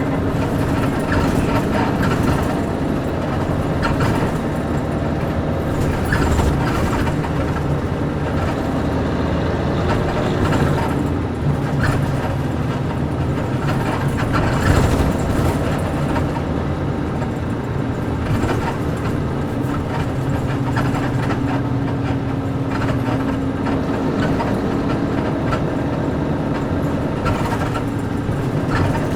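Nissan Diesel UA460 bus with its PG6 diesel engine running, heard from inside the cabin, its engine note changing pitch around the middle and steady in the later part. Scattered clicks, rattles and creaks from the body and leaf-spring suspension.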